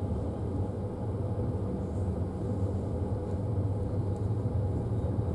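Moving passenger train heard from inside the coach: a steady low rumble of the carriage running on the rails, with a few faint ticks, as it pulls into a station.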